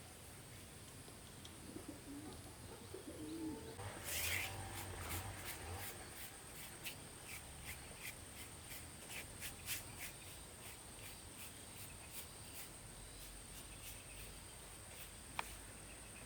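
Bird calls: a low cooing call of a dove or pigeon a couple of seconds in, then a run of short, sharp high chirps or ticks. A steady faint high-pitched tone sits underneath.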